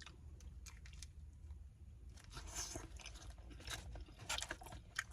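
A person chewing a mouthful of food, with irregular small wet clicks and smacks of the mouth.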